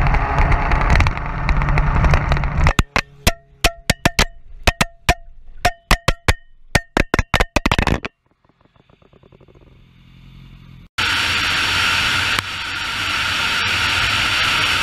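Motorcycle sounds in cut-together clips. First an engine runs under loud rushing noise. Then from about three seconds in comes a run of sharp, irregular cracks, several a second, followed by a quieter stretch. At about eleven seconds the loud engine and rushing noise of riding come back suddenly.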